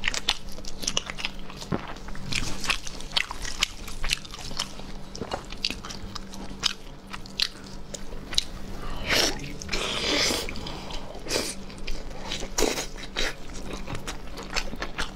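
Close-up eating sounds: biting and wet chewing of boiled meat on the bone, with many short smacking clicks. About nine seconds in comes a longer, noisier stretch of wet sound lasting a second or so.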